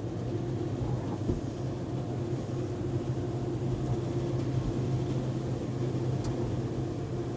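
Steady machine hum of a Sonny's car-wash tunnel's equipment running, with a brief click about a second in.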